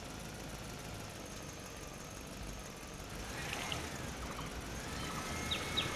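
Steady low rumble with short, quick bird chirps in small bursts from about halfway in, getting louder near the end.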